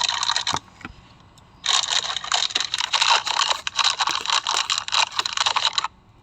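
Packaging being handled: rapid crinkling and rustling with many small clicks. It stops for about a second near the start, then carries on.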